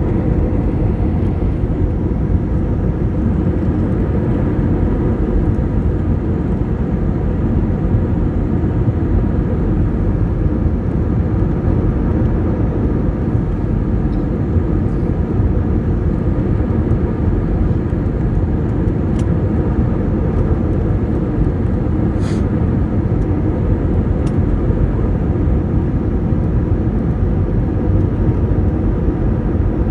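Jet airliner cabin noise heard from a passenger seat: a steady, loud rumble of engines and rushing air, on the approach to landing.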